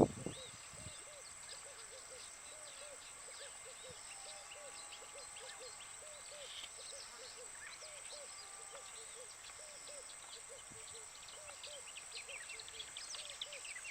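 Birds calling: a long run of short low notes, about three a second, over many faint high chirps and a steady high whine.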